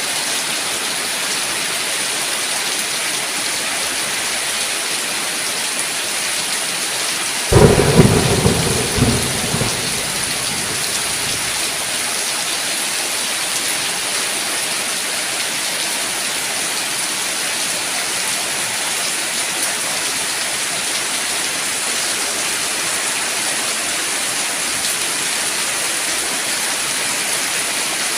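Steady heavy rain, with a sudden thunderclap about seven seconds in that rumbles and fades away over two or three seconds.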